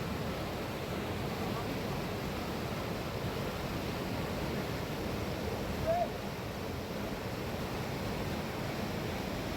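Steady rushing of a fast-flowing river. About six seconds in there is one short, high, rising sound.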